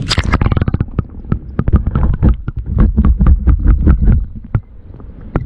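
Rapid crunching clicks of ice being cut through to open a hole in a frozen lake, over a low rumble. The strikes thin out and stop about four and a half seconds in.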